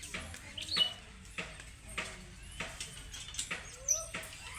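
A parrot eating fruit: a series of sharp crunching bites, roughly one every half second to a second, with a few short high chirps mixed in.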